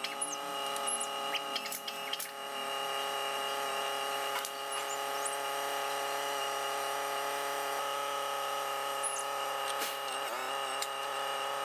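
Electric-hydraulic car hoist's pump motor running with a steady whine, its pitch wavering slightly near the end.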